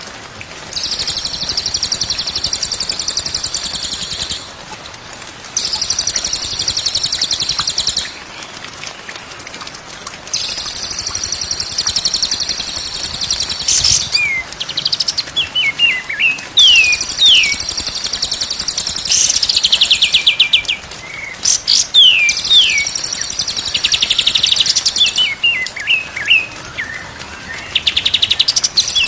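Songbird singing: fast, buzzy high trills in bursts of about three seconds with short pauses between them. From about halfway, quick downward-sliding whistled notes are mixed in.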